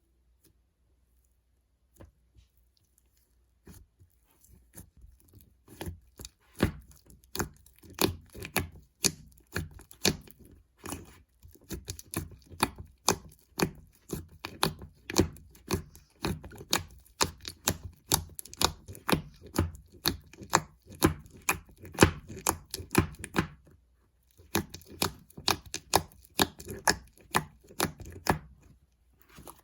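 Slime mixed with corn clay being kneaded and pressed by hand, making sticky popping clicks about twice a second. It starts softly a few seconds in and pauses briefly near the end.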